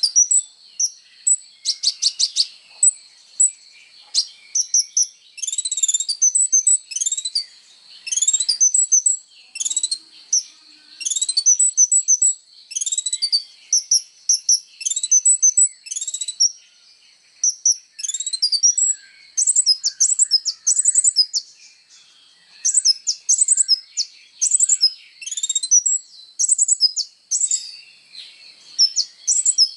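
A kolibri ninja sunbird singing without pause: rapid, high-pitched chirps, short trills and quick rising and falling whistles in phrases about a second apart. It is the lively full-song delivery that bird keepers prize as master song.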